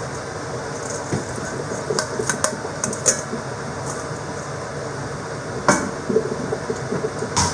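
A steady rumbling noise, with scattered sharp knocks and clicks, the loudest about two-thirds of the way through and again near the end.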